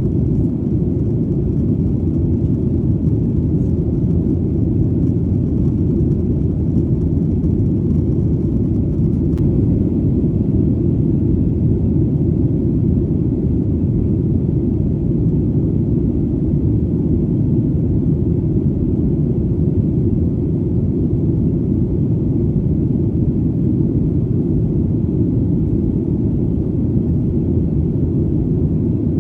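Airplane in flight: a steady, deep engine rumble that does not change.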